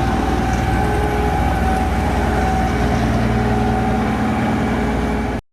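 A heavy engine running steadily: a deep rumble with a few steady tones over it. It cuts in and out abruptly.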